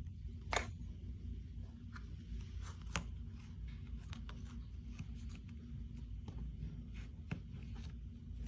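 A few soft, scattered clicks and light scratching over a steady low hum.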